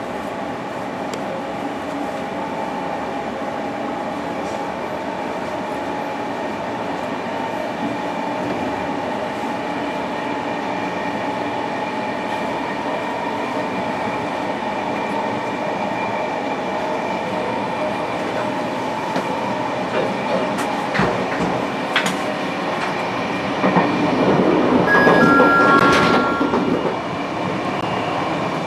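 Passenger train running, heard from inside the carriage: steady running noise with a faint hum, and a few sharp clicks about twenty seconds in. Near the end the noise swells louder, and three short tones step down in pitch.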